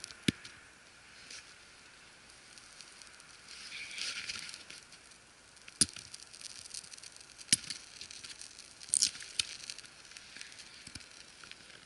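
Small fire of pine kindling and firelighter catching, with scattered sharp crackles and pops every second or so.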